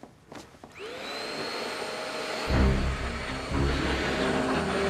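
Vacuum cleaner switching on, its motor whining up to speed and then running steadily, with heavy low rumbling and bumping joining in about halfway through.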